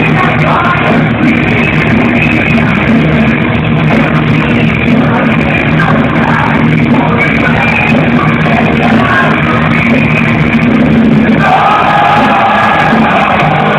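Power metal band playing loud rock music live on stage, with the sound of the arrangement changing about eleven seconds in.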